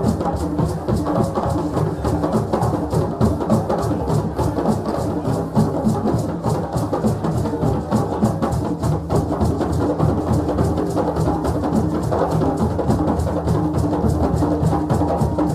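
West African drum ensemble playing a fast, steady rhythm, with deep drum strokes under sharp, dry clacks.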